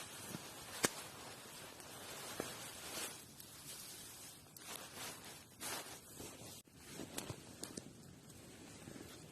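Faint rustling and handling noises with scattered sharp clicks.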